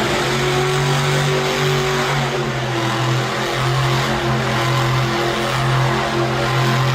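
Monster truck engine running loud at steady, high revs, its exhaust note holding an even pitch.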